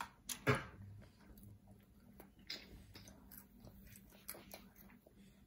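A child eating french fries: one louder short sound about half a second in, then faint, scattered chewing sounds.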